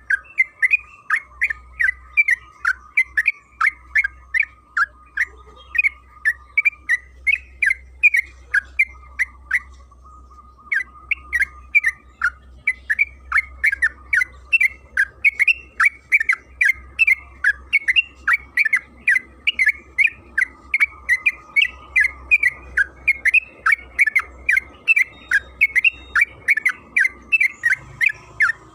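Yellow-vented bulbul (trucukan) calling in a long, rapid chattering run of short, sharp notes, about two to three a second, pausing briefly about ten seconds in.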